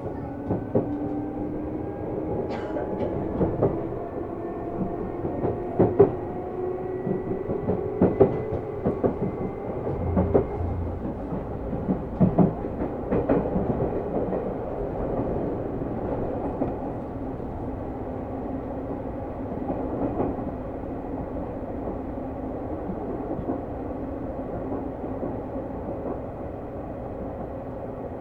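Seibu New 2000 series electric train running: the traction motor whine rises in pitch as the train gathers speed over the first ten seconds or so, then holds steady at cruising speed. Wheels clack over rail joints several times during the acceleration, under a steady rumble of wheels on rail.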